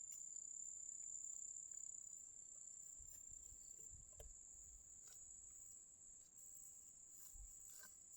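Faint, steady high-pitched insect trill, such as crickets, held on one tone, with a few soft knocks.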